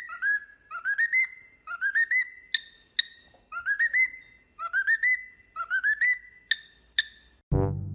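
A high whistling call repeated about once a second, each phrase a quick run of short upward-sliding notes, with a few sharp clicks in between. Brass music breaks in suddenly near the end.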